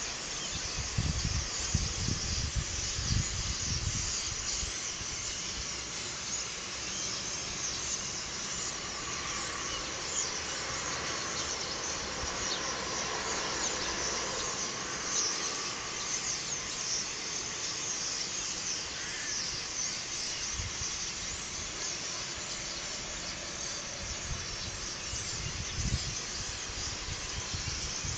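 Steady, dense high-pitched chirring of outdoor ambience, with wind rumbling on the microphone in the first few seconds and again near the end.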